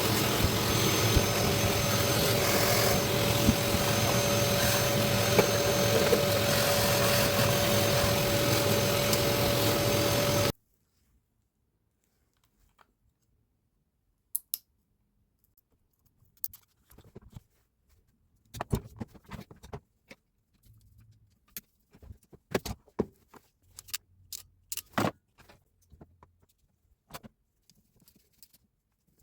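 Hilti TE 76 ATC hammer drill running steadily with a constant whine, cutting off abruptly about ten seconds in. After that come scattered light clicks and knocks of handling.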